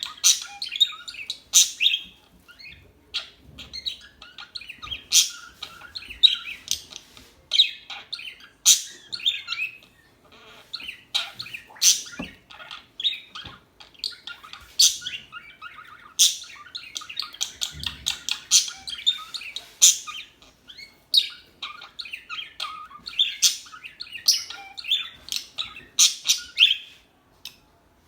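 Small songbirds chirping and twittering continuously, many short sharp calls overlapping, briefly falling quiet near the end.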